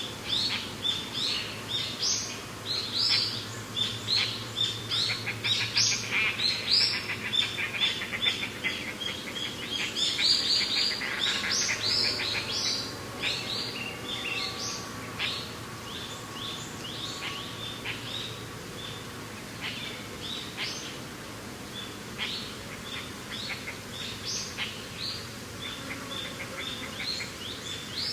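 Many small birds chirping and calling in quick short notes, busiest in the first half and thinning out later, over a steady low background of mountain wind.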